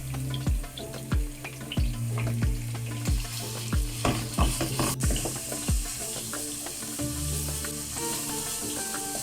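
Food frying and sizzling in a pan while being stirred, with the sizzle hiss growing stronger about halfway through. Background music with a regular beat plays along, and the beat stops after about six seconds.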